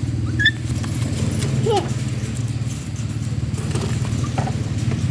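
A motor running steadily with a low, pulsing hum. Two short high chirps sound over it, one about half a second in and a falling one just under two seconds in.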